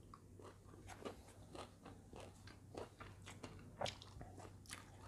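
Faint close-up chewing of a mouthful of rice and side dishes: irregular soft crunches and wet mouth clicks.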